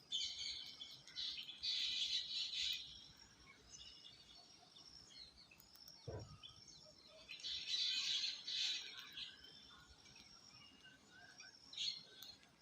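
Parrots squawking and chattering in clusters of harsh high-pitched calls, with a brief low thump about six seconds in.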